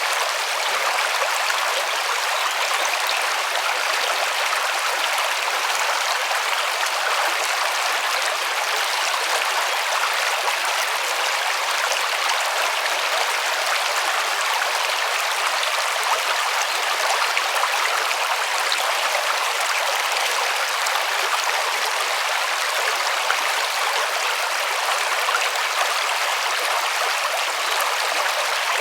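A river's flowing water: a steady, unbroken rush and splash.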